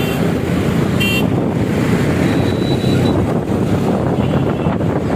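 Wind rushing over the microphone of a moving motorbike, with road traffic noise and a short horn toot about a second in.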